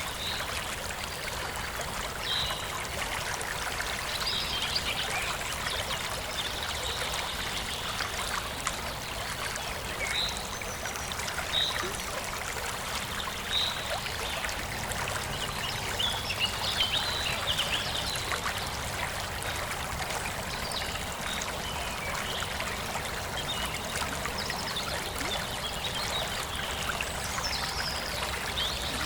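Forest stream flowing steadily, with short high bird chirps scattered here and there.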